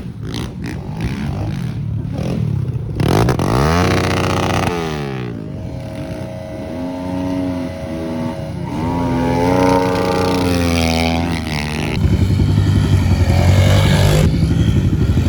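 Pit bike engines revving up and down as they ride the track, the pitch climbing and dropping several times with steady stretches between, louder over the last few seconds.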